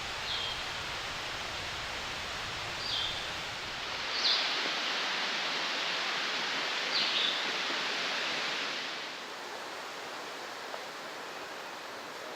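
Steady rushing of a small mountain stream over cascades, louder for a few seconds in the middle, with a bird giving four short high chirps.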